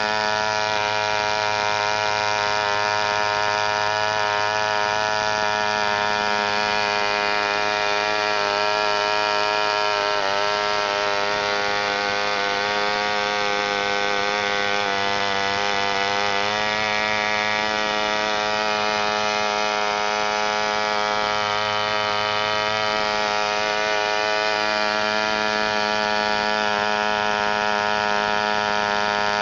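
1972 reproduction of a 1938 Brat model airplane engine running steadily at speed on a test run, a high, buzzing engine note. Its pitch wavers briefly twice, about ten and sixteen seconds in.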